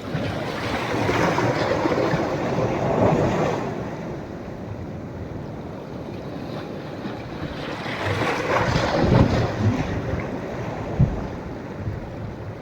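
Sea waves breaking on a sandy beach at a rising tide, the surf swelling twice: about a second in and again around eight seconds. Wind rumbles on the microphone, with a short thump near the end.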